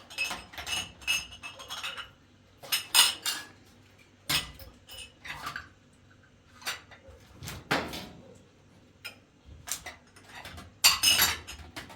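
Dishes and cutlery being handled: irregular clinks and clatters with short pauses, the loudest cluster near the end.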